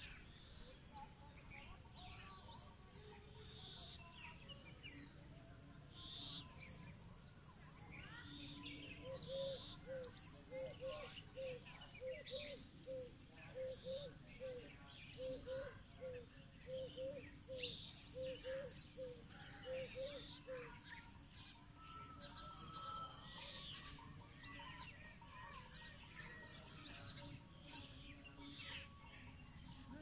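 Small birds chirping in the surrounding trees, with many short, high chirps throughout over a faint, steady low background rumble. Through the middle, another bird repeats a short, low note about twice a second, then stops.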